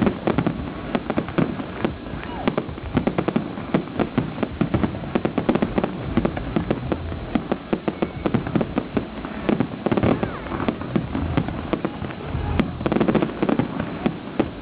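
Public fireworks display: a dense, unbroken barrage of many overlapping bangs and crackles.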